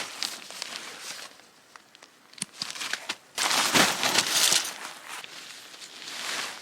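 Rustling and crinkling with a few sharp clicks, loudest in a burst lasting about a second, a little past halfway.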